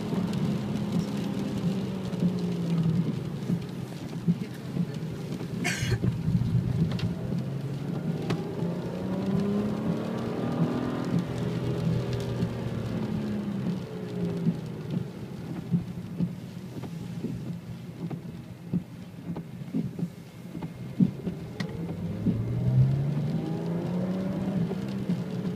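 BMW 335i's turbocharged straight-six engine heard from inside the cabin, its note climbing as the car accelerates and dropping back, twice. Tyres hiss on the wet track.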